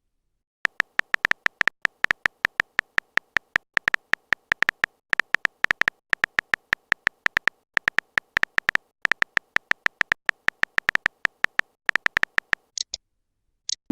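Electronic phone-typing sound effect: short clicking beeps, about five a second, in runs broken by brief pauses.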